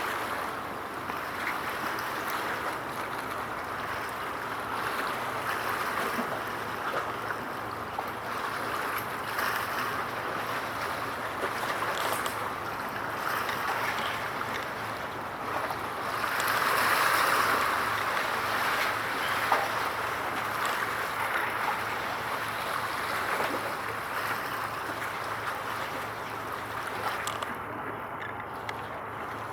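Steady rushing noise of wind and water, swelling louder for a moment about seventeen seconds in.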